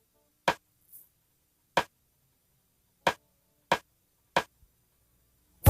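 Studio count-in of five sharp percussive clicks on the session tape, two slow ones followed by three quicker ones, leading into the song, which comes in right at the end.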